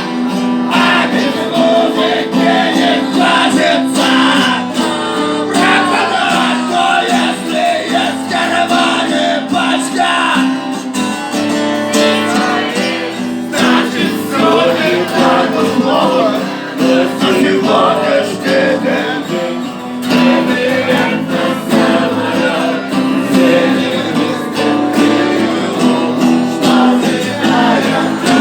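Music: an acoustic guitar playing.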